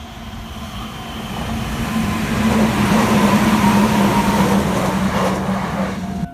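A Meitetsu electric train passing the level crossing, a rush of wheel and running noise with a steady low hum that builds to a peak around the middle. The sound cuts off suddenly near the end.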